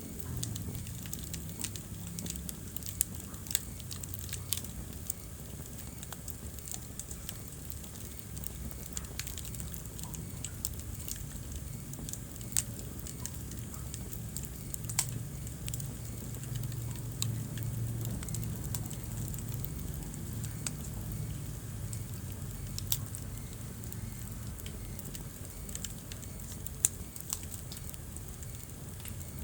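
Wood fire burning in a fireplace: a steady low rumble of flames with frequent sharp crackles and pops, a handful of them louder than the rest.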